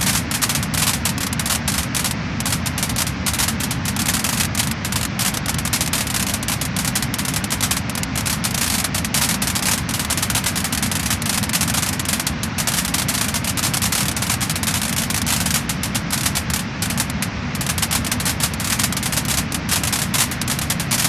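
Wood fire in a fireplace crackling and popping, a dense, steady stream of small crackles over a continuous low rush of the burning fire.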